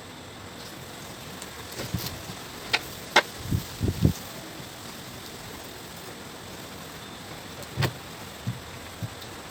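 Scattered knocks and clicks of objects being handled, with a few dull low thumps a few seconds in, over a steady background hiss.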